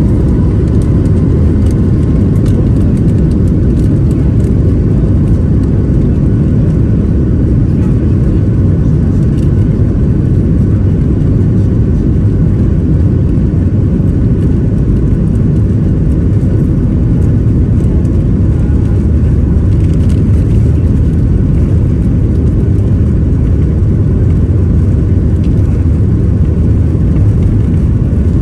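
Boeing 737 MAX 8 with CFM LEAP-1B engines, heard from inside the cabin as a steady, loud, low rumble of engines and airframe. There are a few faint light rattles in the first few seconds.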